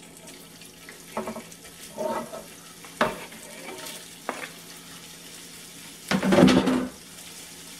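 Small raw pork sausage meatballs dropping into hot olive oil in an electric skillet and sizzling, with short knocks and scrapes of a wooden spatula pushing them off a cutting board. A louder clatter comes about six seconds in.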